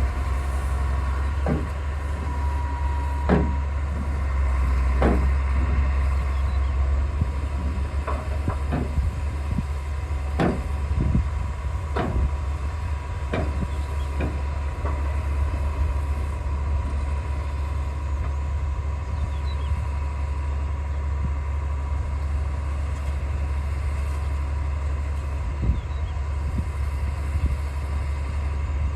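D60 bulldozer's heavy diesel engine running steadily with a deep rumble. Sharp metallic clanks come every second or so in the first half and once more near the end.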